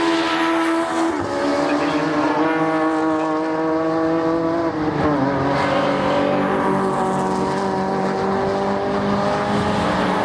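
Racing car engine under hard acceleration, its pitch climbing and then dropping sharply at gear upshifts, once about a second in and again at about five seconds.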